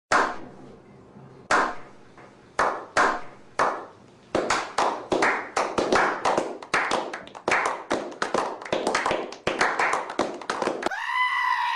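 Hand clapping: a few scattered claps, then quicker uneven claps at about four a second. Near the end comes a short drawn-out call, a voice or a bleat.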